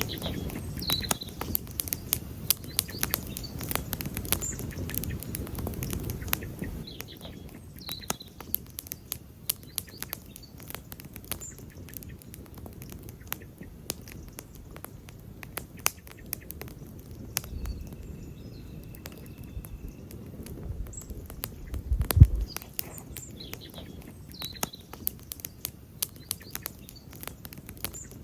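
Wood campfire crackling, with irregular sharp snaps and pops throughout and a low rumble that swells near the start and again later on. A single deep thump about three-quarters of the way through, and a few faint bird chirps now and then.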